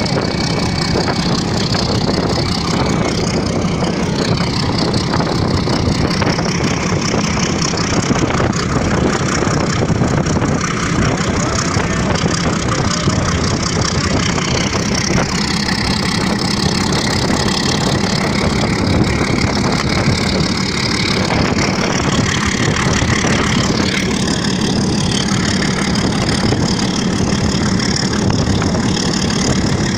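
A train running at speed, heard from its roof: a loud, steady rush of wind buffeting the microphone over the running noise of the train.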